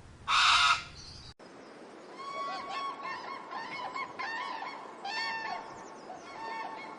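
A single loud, harsh bird call near the start. Then, after a sudden cut, a flock of birds calls over and over in many short, overlapping, arched calls.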